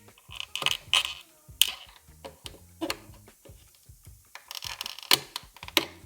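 Scattered light clicks and taps of hard plastic being handled, with a denser cluster of clicks near the end, as the control circuit board is worked loose from the SCR active tank's plastic housing.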